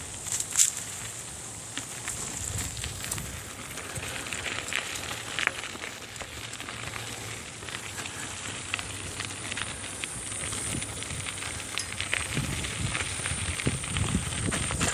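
Bicycle tyres rolling over a dirt woodland trail: a steady noisy rush dotted with small clicks from grit and twigs under the wheels, with a few low thumps near the end.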